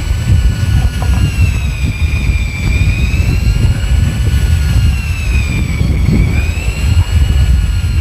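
A fishing boat's engine runs with a heavy low rumble and a whine that rises and falls slowly, every two to three seconds.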